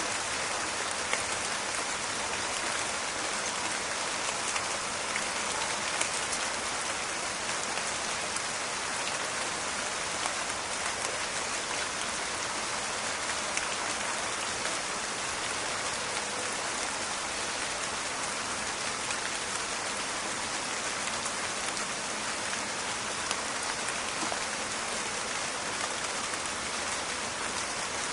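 Steady rain falling in a forest, a dense even patter of drops with many small crackling ticks.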